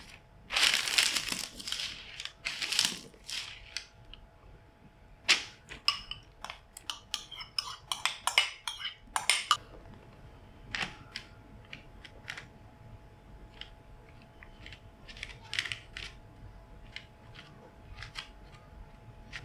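Kitchen preparation sounds: utensils and dishes knocking and scraping. A few scraping passes come first, then a quick run of clicks and knocks in the middle, then scattered clicks, over a faint steady hum.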